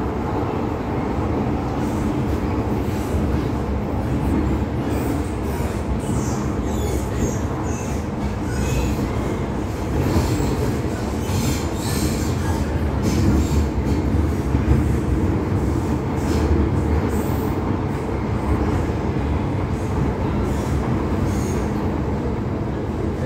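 MTR Tsuen Wan Line M-Train electric multiple unit running, heard from on board: a steady low rumble of wheels on rail, with short high-pitched wheel squeals coming and going, most of them in the middle part.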